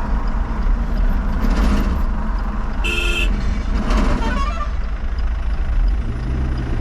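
Steady road and engine rumble from a moving vehicle on a highway, with a short vehicle horn toot about three seconds in.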